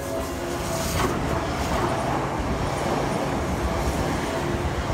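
Seibu 40000-series electric train running into the station past the platform, the rumble and wheel noise of its cars growing as it comes close. A brief sharp noise stands out about a second in.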